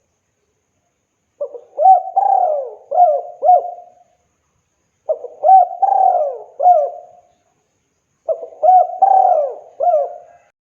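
A spotted dove (tekukur) cooing, starting about a second and a half in. It gives the same phrase of several rising and falling coos three times, with a pause of about a second between phrases.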